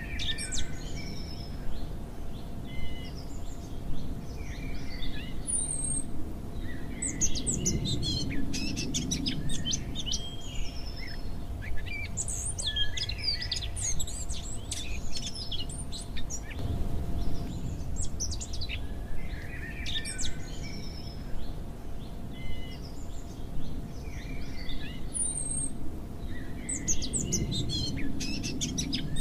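Many small birds chirping and singing together, a dense chorus of short calls and trills over a low background rumble and a faint steady hum; the same passage appears to repeat about every 19 seconds, as a looped recording.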